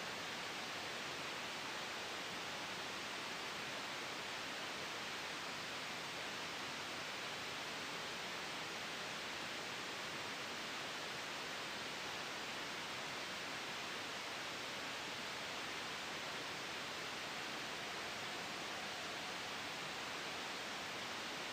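Steady, even hiss of soft white noise blended with gentle wind, with no change in level and now and then a faint airy whistle.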